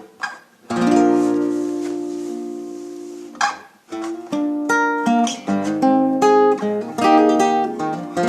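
Acoustic guitar played solo. A chord is strummed and left to ring for nearly three seconds, then after a brief scrape of the strings it moves into single fingerpicked notes.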